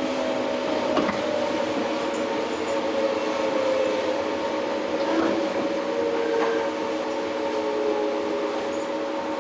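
Running noise inside a JR 115 series electric train's motor car (MoHa 114-102): a steady traction-motor and gear whine over rail rumble, with some of the whine tones gliding slowly lower from about halfway through. A single sharp click about a second in.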